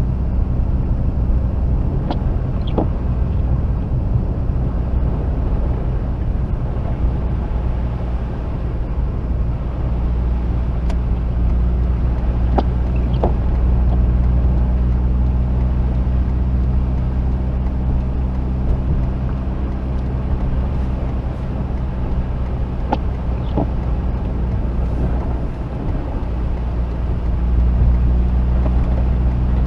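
Mazda RX-8's rotary engine running steadily as the car drives, a low, even drone, with a few faint ticks over it and a slight rise in level near the end.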